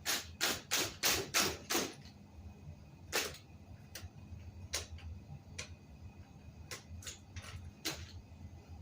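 A series of sharp clicks and knocks: a quick run of about five in the first two seconds, then single ones spaced a second or more apart.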